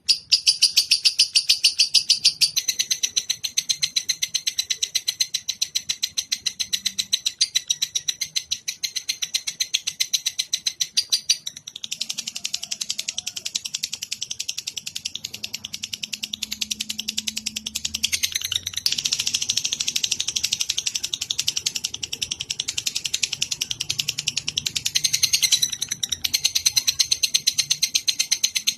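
Recorded songbird song of the kind used to tutor caged songbirds: a continuous, high-pitched trill of very rapid repeated notes, whose pattern shifts a few times, around 12 and 18 seconds in among others.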